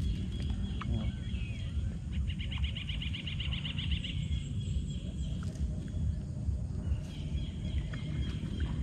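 A bird gives a rapid, even trill of about eight notes a second, lasting roughly two seconds, over a steady low rumble.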